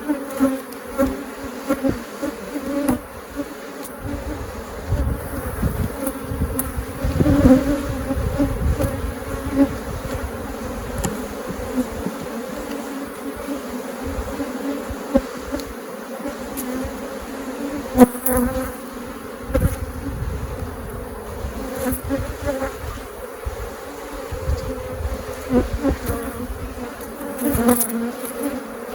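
Honeybees from an open, crowded hive buzzing in a steady hum, with a few sharp knocks from hive handling, the loudest about 18 seconds in.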